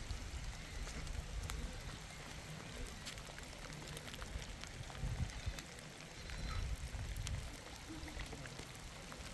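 Rain falling steadily, with many small drops ticking on a surface and a low rumble swelling now and then.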